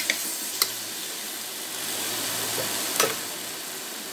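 Onion-tomato masala with sambar powder sizzling steadily in an aluminium pressure cooker pan, with a few sharp clicks of the metal spoon against the pot, near the start and about three seconds in.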